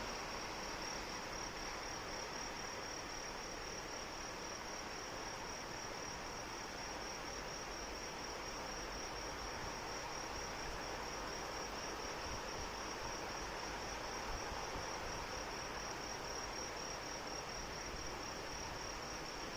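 Steady rain falling, with insects keeping up one continuous high-pitched trill over it.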